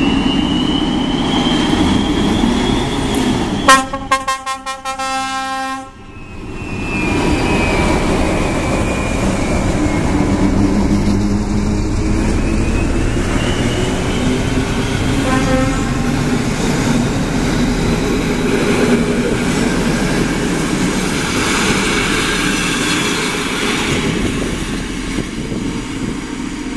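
Locomotive-hauled passenger train running past through a station, a steady rumble of the locomotive and coaches rolling by. A loud horn blast of about two seconds sounds a few seconds in, and a short, faint toot comes about fifteen seconds in. The rumble fades near the end as the train moves away.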